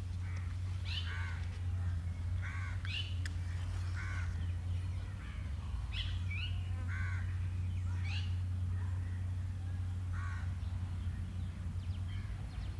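Outdoor birdsong: a bird calling over and over in short calls, about one a second, over a steady low hum.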